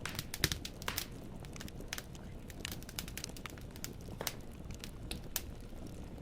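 Firewood burning in a fireplace, crackling: irregular sharp pops and snaps over a low, steady rumble of flame, thickest in the first second and with a stronger pop about four seconds in.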